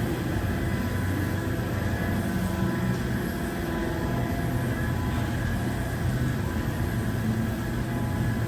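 Equipment of a WashTec Softline2 automatic car wash tunnel running: a steady mechanical hum and rushing noise.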